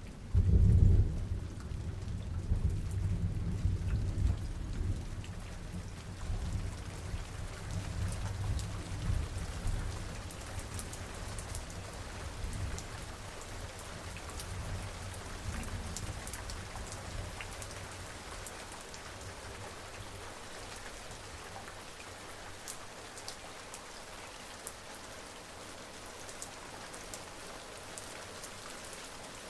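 Steady rain falling, with a loud clap of thunder about half a second in that rolls on as a low rumble and slowly fades over the next ten seconds or so, leaving the rain hiss and scattered drops.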